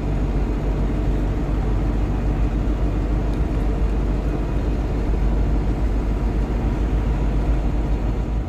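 GAZon Next truck driving along: steady engine drone with road and tyre noise.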